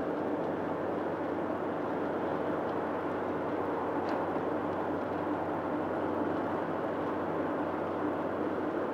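Steady road and engine noise inside a moving car's cabin at highway speed, with tyres running on a wet road.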